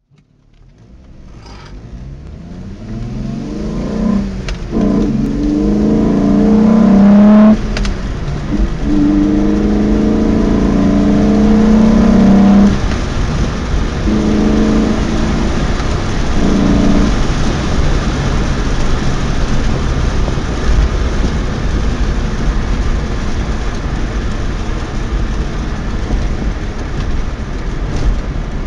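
Volkswagen Golf Mk3 VR6 engine heard from inside the car, with the induction roar of an open cone air filter. It pulls hard in two long rising runs, each ending in a sudden drop in revs. Two shorter bursts of throttle follow, then it settles into steady cruising with road noise.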